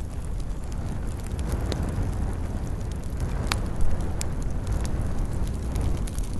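Campfire burning: a steady low rumble of flames with scattered sharp crackles and pops of burning wood, the loudest pop a little past halfway.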